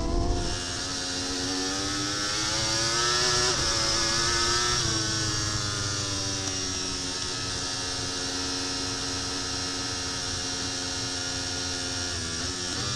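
Racing superbike engine heard from the onboard camera, revs climbing with brief dips at the gear changes a few seconds in, then held at a steady high pitch for several seconds before another quick shift near the end.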